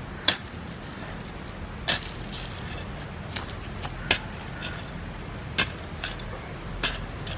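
Hoe (mamoty) blade chopping into soil, about five sharp strikes roughly a second and a half apart with fainter scrapes between, as earth is cut and drawn up around the base of bird's eye chilli plants.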